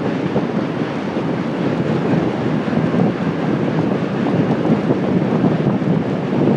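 Wind noise buffeting a handlebar-mounted phone's microphone while cycling: a loud, steady, rough rush.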